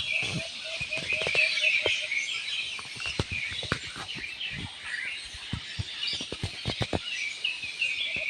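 Many small birds chirping at once in a dense, busy chorus of short high notes. A lower call repeats about three times a second during the first two seconds, and sharp clicks are scattered through the middle.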